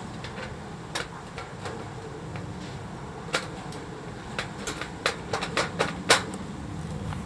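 Firewood burning in a compact fire stand, crackling with sharp irregular pops that come thickest a little past the middle, over a low steady rumble.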